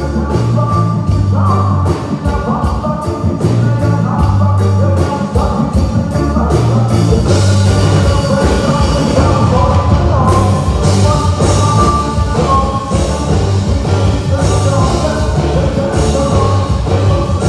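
Live rock band playing through a PA system: bass, drums with a steady hi-hat, and a lead melody line over them.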